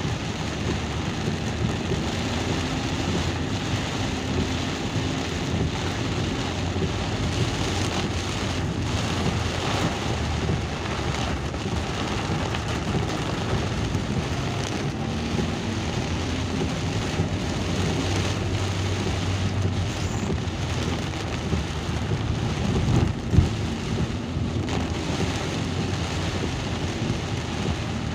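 Steady rain, with the low steady hum of a moving vehicle beneath it. One sharp knock comes a little over 23 seconds in.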